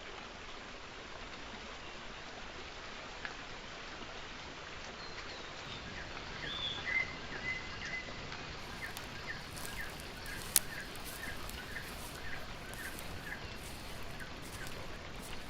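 Outdoor ambience: a steady background hiss, with small birds chirping in short repeated notes from about six seconds in, and one sharp click about ten seconds in.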